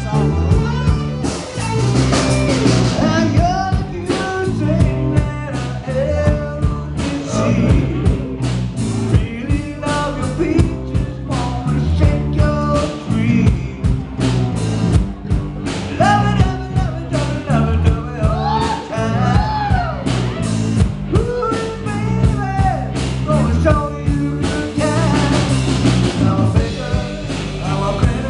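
Live rock band playing a mid-tempo song with a steady drum beat and electric guitar, with a singer's voice over it.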